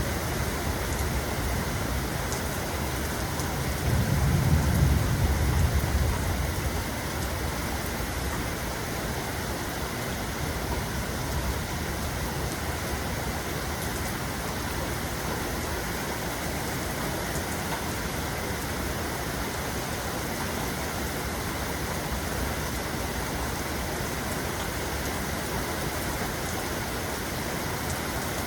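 Steady rain falling, with a low roll of thunder swelling and fading a few seconds in.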